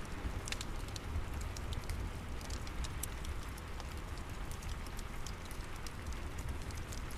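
Steady rain with a low rumble, mixed with a fireplace crackling: many small sharp pops scattered irregularly throughout.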